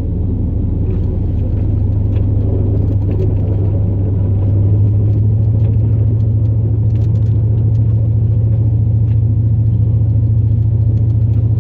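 Steady low drone of a 2002 Chevrolet Silverado's 8.1-litre big-block V8 petrol engine and drivetrain, heard from inside the cab while the plow truck cruises down the road at an even speed. It swells slightly about halfway through.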